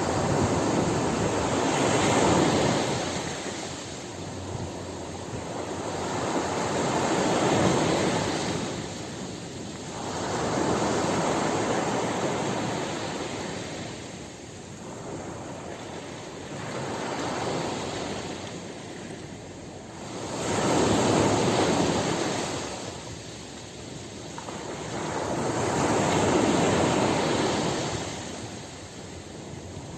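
Ocean waves breaking and washing up the shore, each surge swelling and falling away, about one every five seconds.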